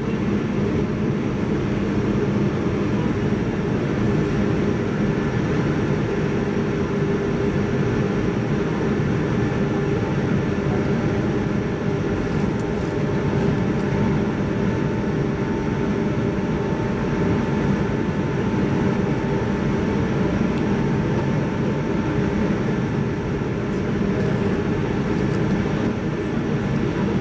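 Running noise heard inside a passenger car of a JR 185 series electric multiple unit at speed: a steady rumble of wheels on the rails mixed with the hum of the drive. A faint higher tone joins for several seconds in the middle.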